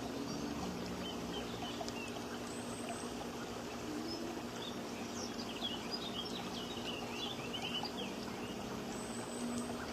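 Small birds chirping: many short, quick chirps, busiest through the second half, over a steady background hiss.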